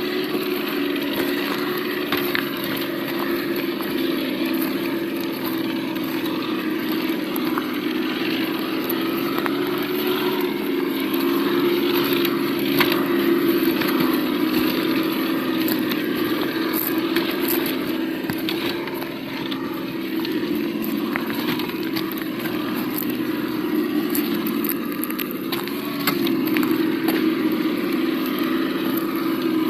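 Sound module of an Absima Yucatan 1:8 RC crawler playing a simulated engine note through its small speaker: a steady low hum that swells a little about midway and again near the end, with scattered clicks and crackles over it.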